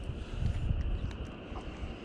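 Wind buffeting the microphone, a low uneven rumble that swells and fades in gusts.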